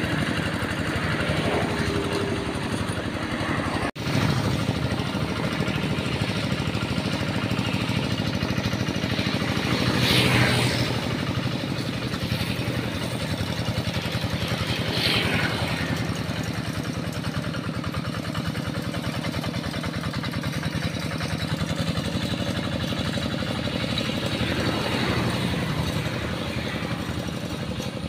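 Tractor engine running steadily under load while plowing a rice paddy, with a very short break about four seconds in.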